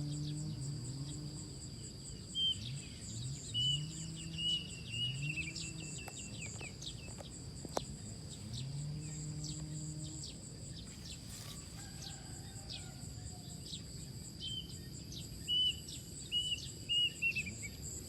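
Outdoor ambience: a bird calling in two runs of short chirps, over a steady high drone of insects, with a faint low pitched sound rising and falling underneath.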